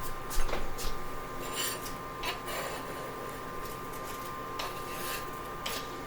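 A handful of short scraping strokes from kitchen utensils working chopped onion, most of them in the first half and two more near the end, over a faint steady hum.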